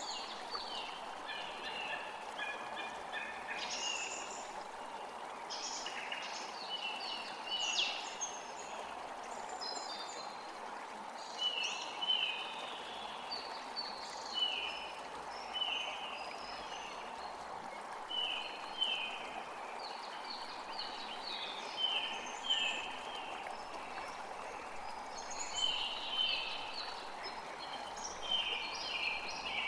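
Several birds calling over the steady rush of a flowing stream. In the second half, one bird repeats a short falling note about once a second.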